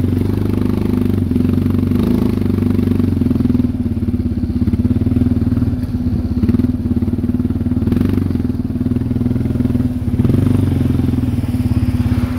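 Quad (ATV) engine running steadily while the machine drives through deep snow.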